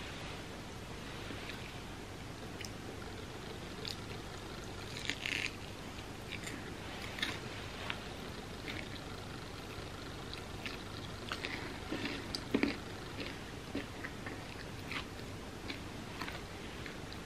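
Chewing and crunching a mouthful of homemade vegan picnic bar, a crisp puffed-rice and peanut candy bar with chocolate coating: scattered short crunches and mouth sounds, a little louder about five seconds in and again about twelve seconds in, over a faint steady hum.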